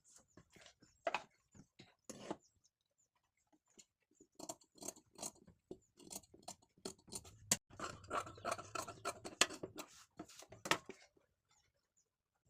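Tailor's scissors snipping through blouse fabric: a few separate snips near the start, then a dense run of short snips from about four seconds in until near the end.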